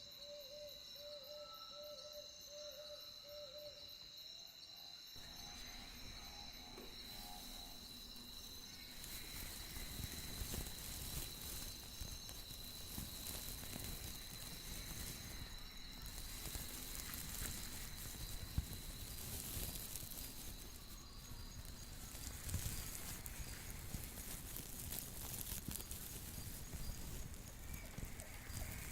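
Night nature ambience: a steady, high insect-like trill with a repeating low chirp. About five seconds in, a louder even rushing layer joins, like running water.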